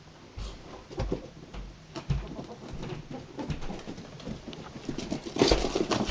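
Two playing ferrets making their soft clucking 'dook' noises, in quick irregular runs, with paws scampering; a louder flurry comes near the end.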